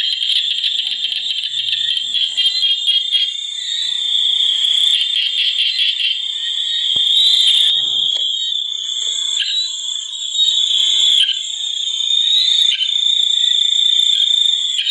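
Dense chorus of calling frogs and insects: a continuous high-pitched trilling buzz, pulsing rapidly in places and swelling and dipping slightly.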